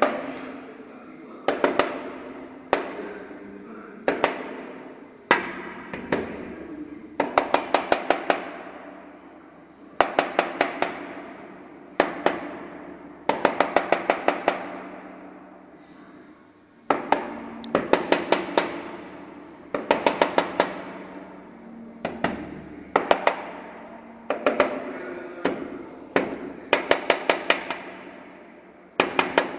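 A woodpecker pecking at a glass window pane: short bursts of rapid, sharp taps, several at a time, repeating every second or two, with a brief ring after each burst.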